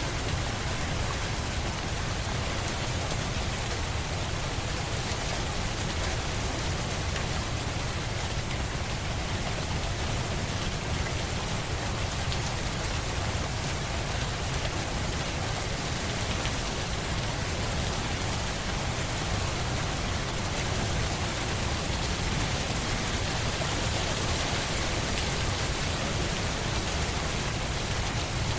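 Steady rain falling, an even hiss with a low rumble beneath and faint scattered drop ticks.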